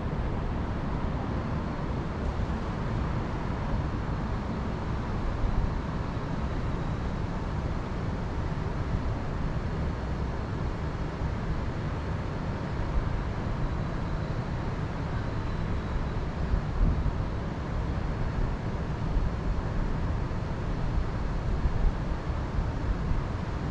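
Steady wind with a low rumbling rush and small gusts now and then.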